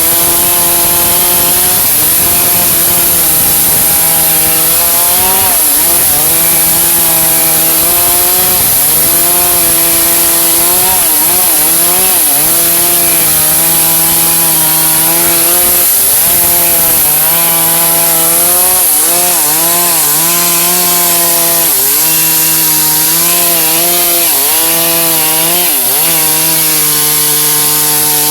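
Chainsaw running at high revs, cutting white albizia wood. Its engine pitch holds steady for stretches and dips briefly several times as the saw bogs under load in the cut, then recovers.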